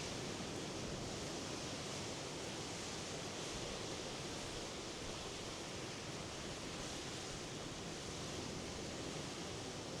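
Surf of the Norwegian Sea: a steady rush of waves with no single crash standing out.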